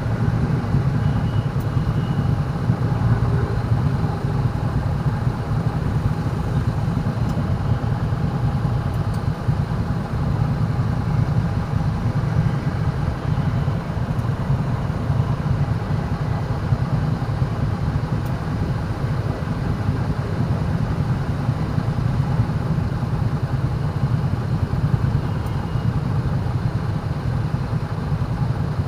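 Steady low rumble of a vehicle being driven through city traffic, with engine and road noise running evenly throughout.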